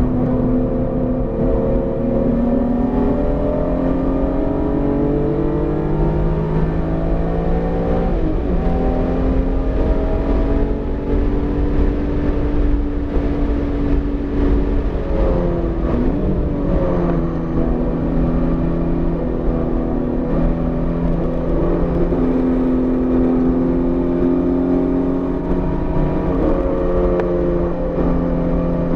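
BMW E46 M3's inline-six engine pulling hard on track, its pitch climbing under acceleration, dropping sharply about eight seconds in and dipping again around sixteen seconds before climbing once more. The freshly built engine is still being broken in and held below 7,000 rpm.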